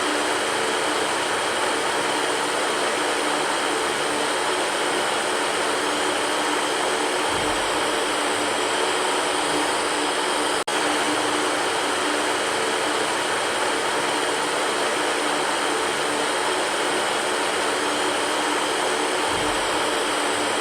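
Electric fan running steadily: an even whooshing rush of air with a faint low hum under it. It cuts out for a split second about halfway through, then carries on unchanged.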